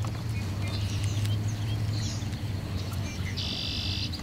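Small birds chirping, with a short buzzy trill a little past three seconds in, over a steady low hum.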